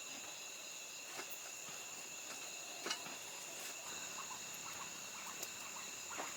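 Steady high-pitched insect chorus, with a few faint taps or knocks, the clearest about three seconds in.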